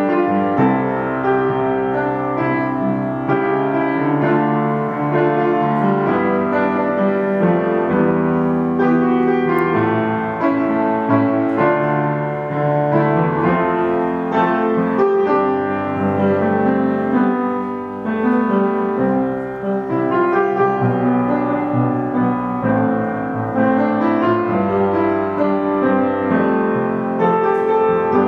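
Piano music playing without a break, a steady flow of held, overlapping notes.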